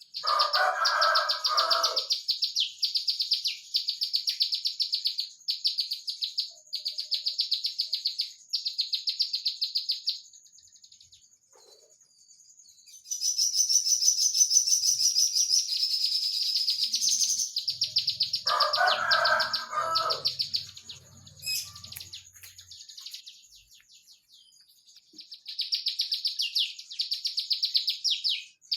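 A prenjak lumut singing in its rapid, closely packed 'nembak' style: high-pitched trilled bursts about a second long, one after another with short gaps. The song is denser and louder for a few seconds in the middle. A lower-pitched chattering call comes in twice, at the start and again about 19 seconds in, over a faint steady high tone.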